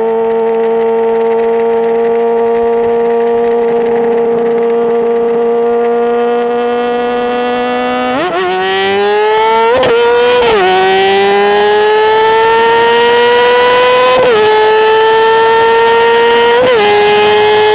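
Sport motorcycle engine running hard at high revs, holding a steady high pitch. About eight seconds in the pitch drops, then climbs slowly, broken by several brief jumps as it shifts up while accelerating toward top speed.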